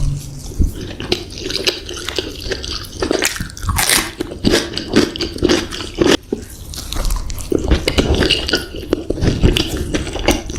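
Close-miked ASMR eating of extra-spicy baby squid: irregular wet chewing, biting and lip-smacking with short clicky smacks.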